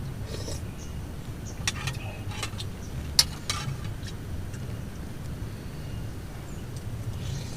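Steady low rumble of rain and strong wind around a tent. A handful of sharp clicks and knocks come between about two and three and a half seconds in, the loudest just past three seconds.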